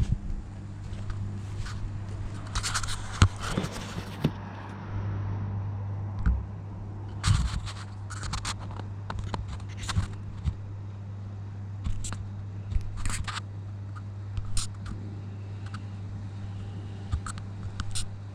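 Irregular scrapes and sharp clicks of hard parts being handled and worked, over a steady low hum.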